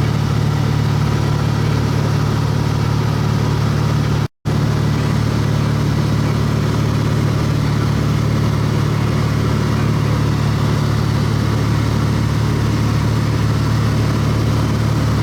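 Light aircraft's piston engine and propeller droning steadily, heard from inside the cabin. The sound cuts out completely for a split second about four seconds in.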